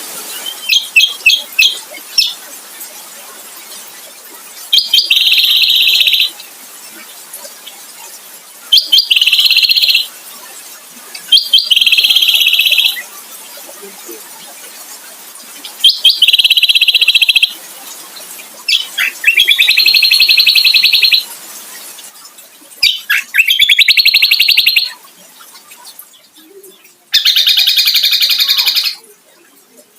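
Kecial kombo songbird singing loud, high-pitched phrases every few seconds. Each phrase opens with a few sharp notes and runs into a fast rattling trill lasting a second or two.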